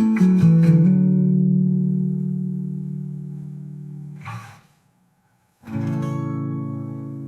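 Fingerpicked guitar plays a few quick notes, then lets a chord ring and fade. A short hiss comes just past the middle, then about a second of silence. A new chord is struck and rings out.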